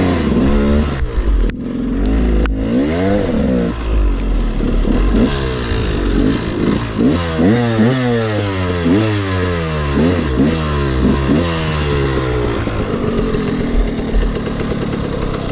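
Two-stroke dirt bike engines revving. The pitch rises and falls in quick repeated sweeps, about once a second through the middle. Near the end the engines settle to a steadier run.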